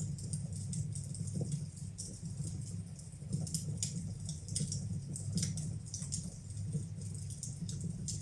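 Wood fire burning in a fireplace, crackling with frequent small irregular pops over a steady low rumble.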